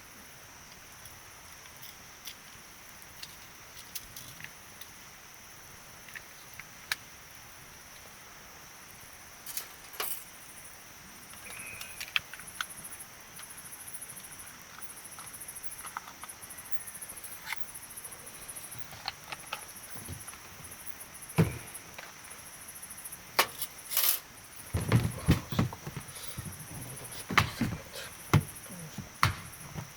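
Campfire crackling with scattered sharp pops and snaps, turning into a denser run of louder knocks and clatters in the last few seconds.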